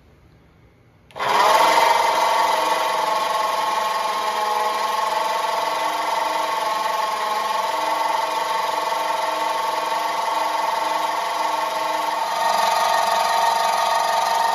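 The 1950 Ford F1's flathead V8 being cranked on its starter motor without firing, a steady whine that starts abruptly about a second in. The engine is being turned over to circulate oil and check for leaks at the rear main seal.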